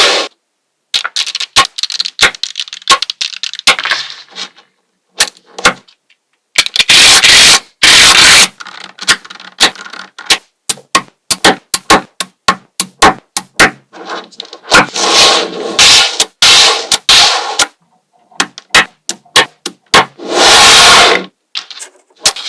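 Small magnetic balls clicking and snapping together in quick, irregular clicks, with louder bursts of scraping rattle about seven seconds in, around fifteen seconds and near twenty seconds.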